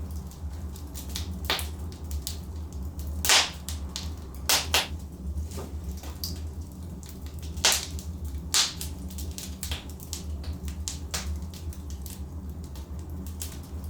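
Log fire in a fireplace crackling: irregular sharp pops and snaps over a low steady rumble of the burning wood. The loudest pops come a few seconds in and again around the middle.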